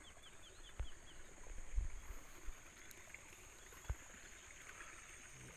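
Faint outdoor ambience with a steady high-pitched insect drone, a quick run of about seven short chirps at the start, and a few dull thumps and knocks, the loudest about two seconds in.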